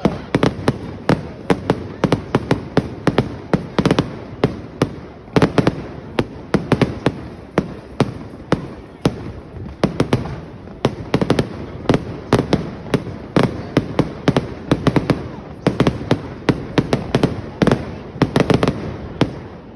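Fireworks display: a continuous barrage of sharp bangs and crackles, several a second, with hardly a pause.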